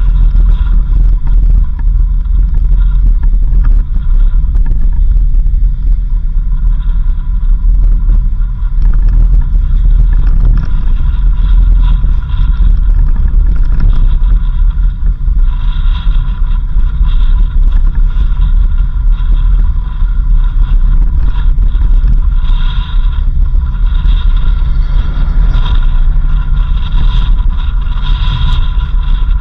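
A vehicle driving along a road: a loud, steady low rumble of engine and road noise, with a faint steady whine above it.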